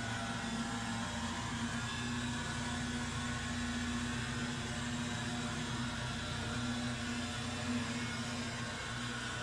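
A small engine running steadily at constant speed, with a continuous hum and no change in pitch.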